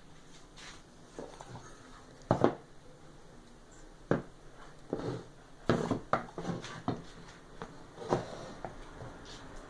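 Irregular knocks, taps and short scrapes of a wooden jataí bee box being handled, the loudest a sharp knock a couple of seconds in.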